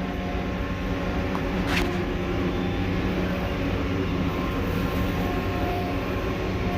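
Case IH tractor's engine running steadily while mowing hay, with a short high chirp about two seconds in.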